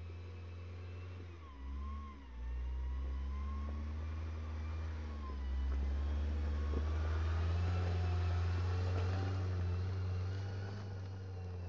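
Mercedes-Benz G-Class 4x4's engine running, its pitch rising and falling. It dips briefly about two seconds in and runs louder from about six seconds on.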